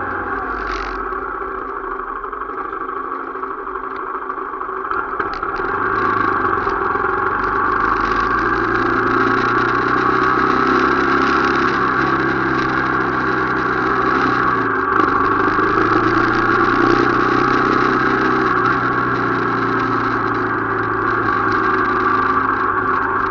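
Motorcycle engine running steadily while riding. It grows louder about five seconds in and dips briefly about fifteen seconds in.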